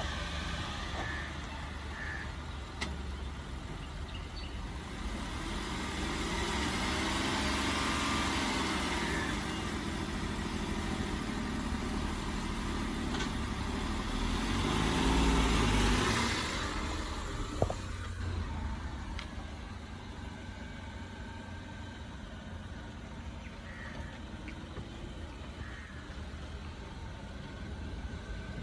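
Datsun redi-GO hatchback's small three-cylinder petrol engine running, revved up and back down twice as the car pulls off from a stop on a slope in a hill start. A single sharp click comes just after the second rev.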